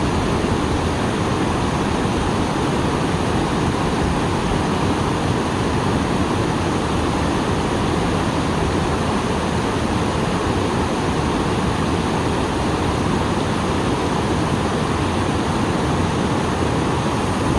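A small waterfall running full after rain: water pouring over a drop in a steady, unbroken rush.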